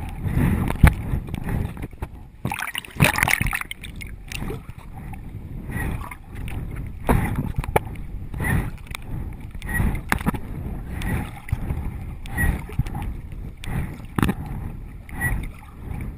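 Water splashing and sloshing close to a GoPro, busiest a few seconds in, then settling into a regular rhythm of about one splash every second and a half.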